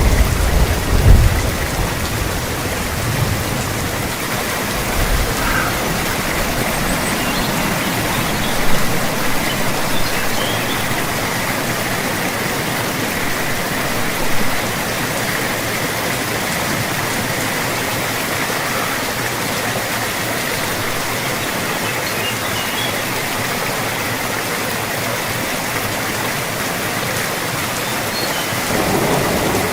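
Steady, dense rain falling, an even hiss with no let-up. A deep rumble fades away over the first few seconds.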